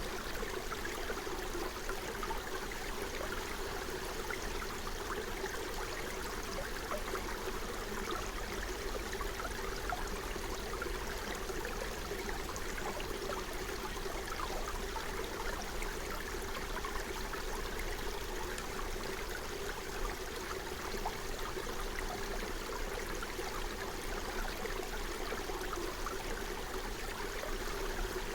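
Forest stream flowing steadily over stones, a continuous babbling and gurgling with small splashes throughout.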